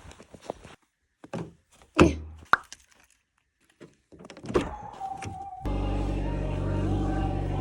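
A few scattered knocks and thunks, like a car door and handling inside a car. About five and a half seconds in, a steady car engine hum starts suddenly and keeps running.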